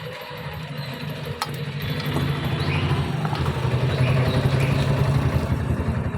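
An engine running with a steady low pulsing throb, growing louder over the few seconds.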